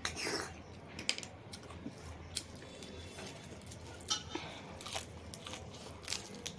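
A person chewing food close to the microphone, with irregular crunches and sharp wet mouth clicks.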